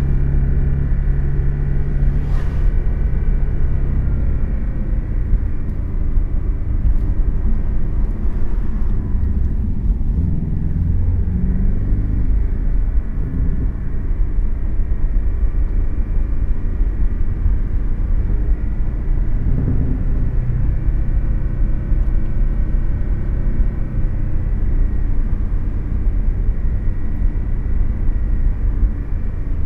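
Porsche sports car's engine running under way with tyre and road rumble, heard inside the cabin; the engine note rises and falls a couple of times. A brief click about two seconds in.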